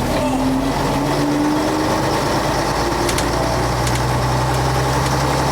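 The diesel engine of a 1966 Scania Vabis BF56 bus running steadily, with a pitched whine that rises over the first second or two and then levels off.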